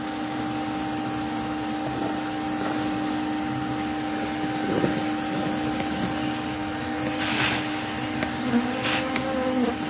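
A vacuum motor running steadily with an even hum, as a bee vacuum does when sucking bees off comb during a hive removal.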